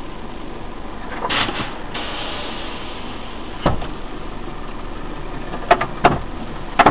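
A car idling, heard from inside its cabin through a dashcam, a steady even hum. A brief rush of noise comes about a second in, and sharp clicks and knocks follow, one about halfway through and three close together near the end.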